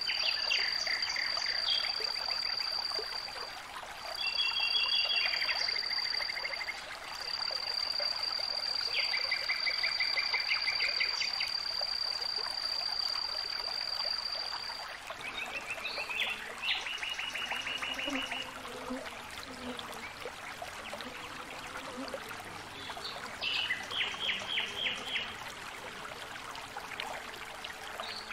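Songbirds calling in short, rapid trills over a steady hiss of background noise, with a long steady high-pitched tone, broken by short gaps, through the first half.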